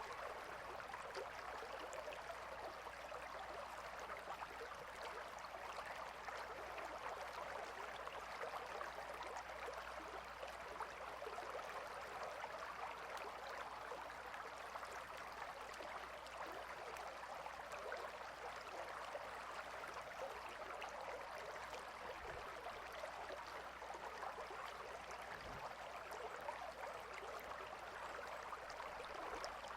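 A gentle river flowing, a steady, even rush of water without breaks.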